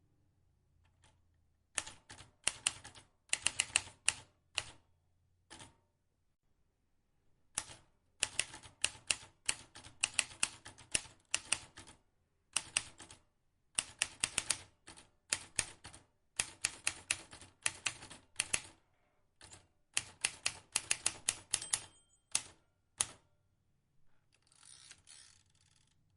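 Vintage manual typewriter being typed on: runs of sharp key strikes in quick groups, with short pauses between words. A brief rushing noise near the end.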